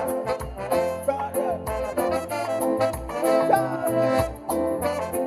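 Instrumental passage of a Brazilian Portuguese song with a steady beat and bass line, played back through a JBL Charge 3 portable Bluetooth speaker.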